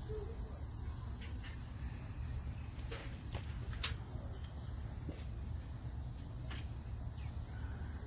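Insects droning steadily at one high pitch, with a low rumble underneath and a few faint clicks scattered through.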